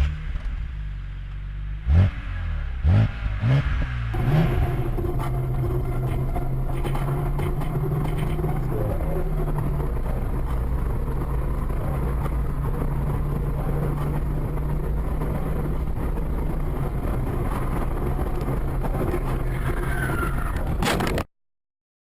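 Car engine running with steady road noise, after a few short loud bursts in the first few seconds; it cuts off suddenly near the end.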